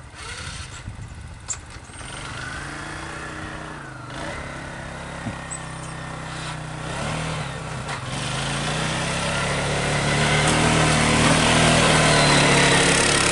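Engine of a small snow-plowing machine working through heavy snow, its pitch rising and falling, growing louder over the last few seconds.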